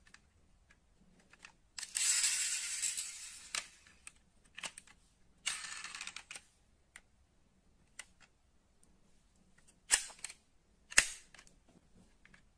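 Handling noise from small die-cast model cars on a hard surface: a scrape of about two seconds and a shorter one of about a second, then a few sharp clicks, the two loudest near the end.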